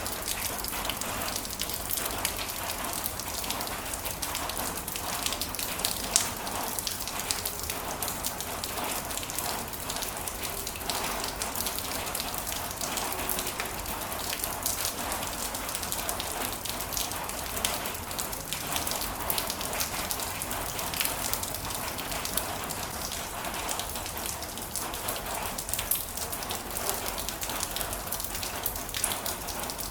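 Heavy rain falling steadily, with many sharp drops pattering close by.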